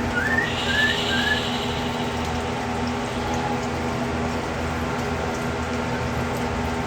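A bird gives a few short, rising whistled chirps in about the first second and a half, over a steady background hum.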